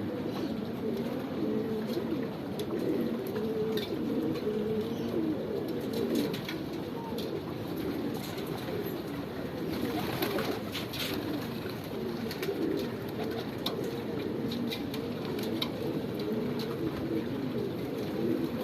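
A flock of domestic pigeons cooing continuously, many low overlapping calls at once, with faint scattered clicks and flutters.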